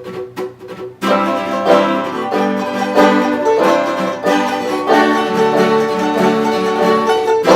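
Banjo and acoustic guitar starting a song's instrumental intro: a few quiet picked notes, then about a second in the full, loud picked playing comes in and runs steadily on.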